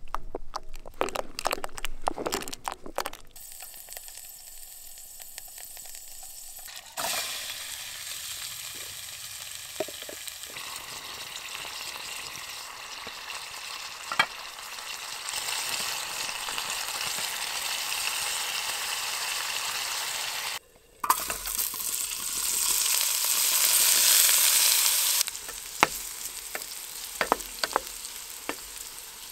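Food sizzling in a pan over a wood fire: pieces of chicken and spicy sausage browning, then diced potatoes frying, the sizzle loudest for a few seconds about three-quarters of the way through. A quick run of knocks at the start as potato cubes are tipped into a pot, and scattered knocks and scrapes near the end from a wooden spatula stirring the potatoes.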